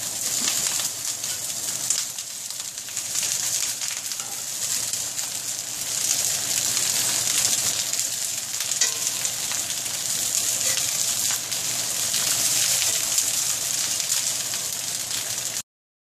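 Napa cabbage stems sizzling steadily in hot oil in a cast-iron skillet, with a spatula now and then scraping and turning the pieces. The sizzle cuts off suddenly near the end.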